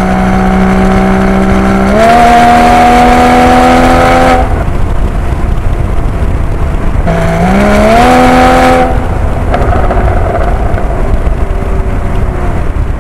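Mercedes-AMG A35's turbocharged four-cylinder engine heard inside the cabin through a dashcam microphone, pulling hard twice: each time the engine note climbs and holds for about two seconds, then drops away into road and tyre noise as the throttle is lifted. The exhaust comes through muffled, which the owner finds dull and lacking for a sports car.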